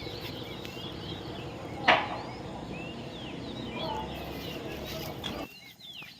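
Many parrots chattering: a dense mix of short, high chirps and whistles over a steady background. About two seconds in there is one loud, sharp sound. Near the end the chatter cuts off abruptly and the level drops.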